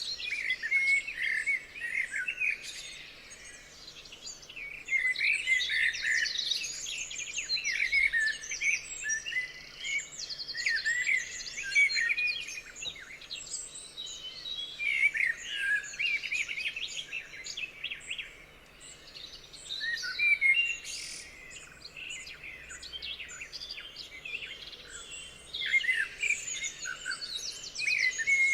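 A chorus of several songbirds singing, with overlapping chirps, trills and warbled phrases that come in waves with brief lulls, over a faint steady background hum.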